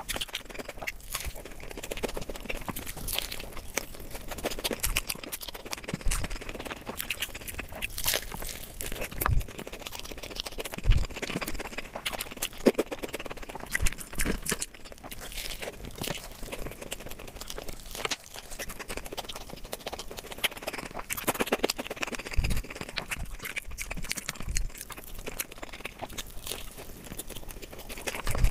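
A person eating close to the microphone: chewing with frequent wet mouth clicks and smacks at an irregular pace, and a few low thumps.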